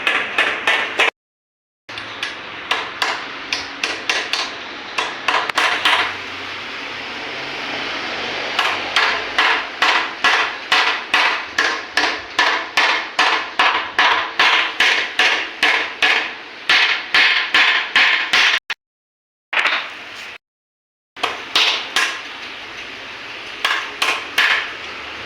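Hammer striking metal in repeated, evenly spaced blows, about two to three a second, with a few abrupt breaks: work on a motorcycle's steering-head cone set (the handlebar bearing cups and races).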